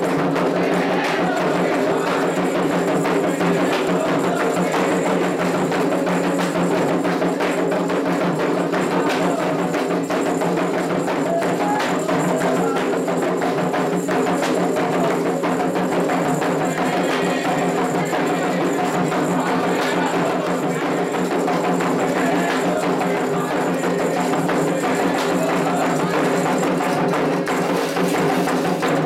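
Candomblé drumming: atabaque hand drums playing a continuous toque for Oxossi, with sharp, wood-block-like percussion strikes over it.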